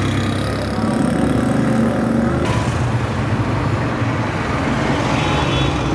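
Street traffic, with a motor vehicle's engine running close by over a steady hum of road noise.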